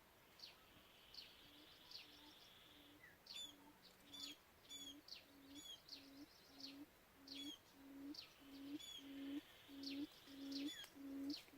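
Quail call: a low hooting note repeated steadily about every 0.7 seconds, growing louder toward the end. Quick high chirps from other birds are scattered over it.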